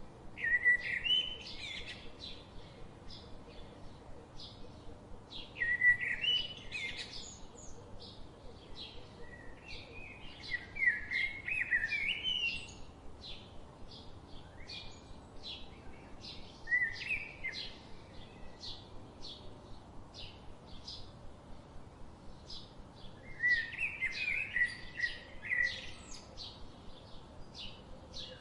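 Songbirds singing: one bird gives a short warbling song phrase five times, every few seconds, over a steady series of short high chirps repeating about twice a second.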